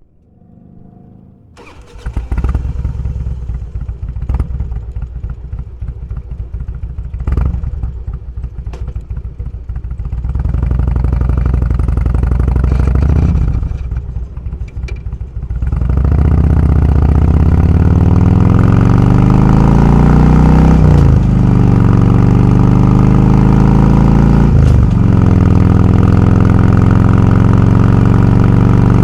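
Motorcycle engine starting, then idling unevenly with a few throttle blips. The bike pulls away and accelerates, rising in pitch and dropping back at each of two gear shifts.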